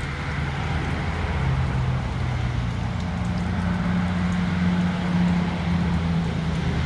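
Steady rain falling, over a low, steady hum that steps up in pitch about a third of the way through.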